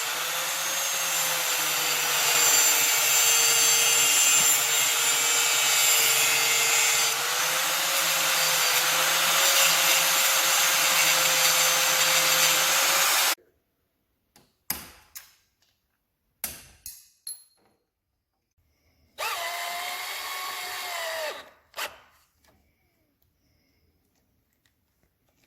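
A handheld power tool runs steadily for about thirteen seconds and stops abruptly, while the crew works on replacing loose leg bolts. A few short knocks follow. About twenty seconds in, the tool runs again for about two seconds.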